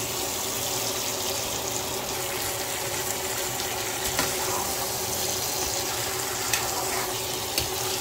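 Chicken drumsticks sizzling steadily in masala in a frying pan, with a few sharp clicks of a metal spoon against the pan.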